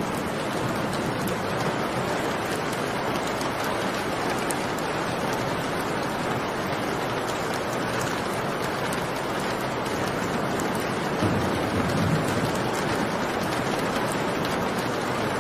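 Steady heavy rain, with a brief low rumble about eleven seconds in.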